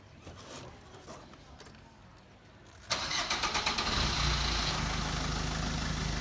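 Car engine started: the starter cranks with a quick pulsing sound about three seconds in, the engine catches within about a second and settles into a steady idle. It fires now that a loose battery cable has been fixed.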